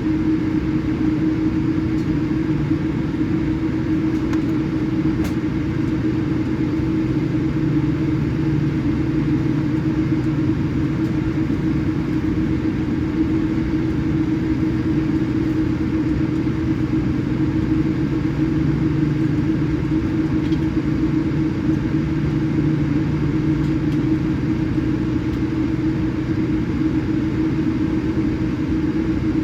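Steady cabin rumble of a Boeing 787-8 Dreamliner taxiing, with a constant low hum running through it.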